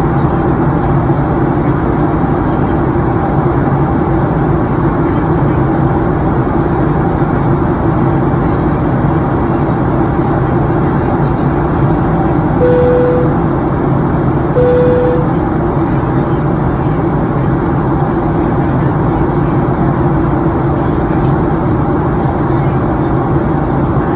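Steady cabin noise of a Boeing 737-900ER in flight on descent: engine and airflow noise heard from a forward window seat. Two short electronic tones sound about two seconds apart just past the middle.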